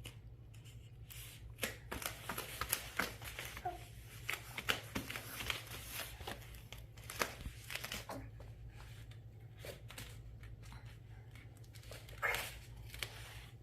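Light clicks, taps and rustling from plastic toys being handled, scattered irregularly over a low steady hum.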